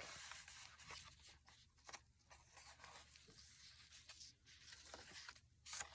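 Faint rustling and soft handling of paper journal pages, with a few light taps as they are moved.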